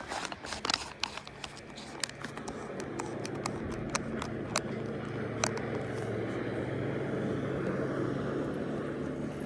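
Boat motor running steadily, with a low hum that builds over the first couple of seconds and then holds. A few sharp clicks and knocks from handling in the boat come near the start.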